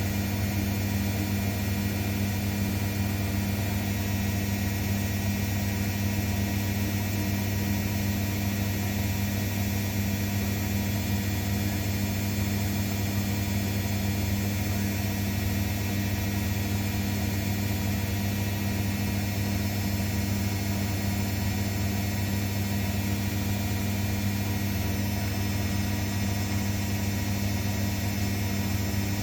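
Zanussi washing machine running with a steady, unbroken hum.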